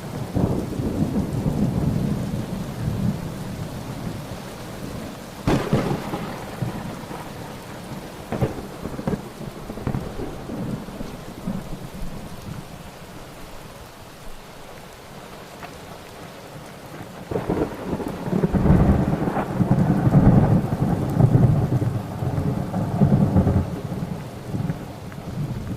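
Thunderstorm with steady rain and rolling thunder: a sharp crack about five seconds in and another a few seconds later, then a long, loud rumble of thunder through the last third.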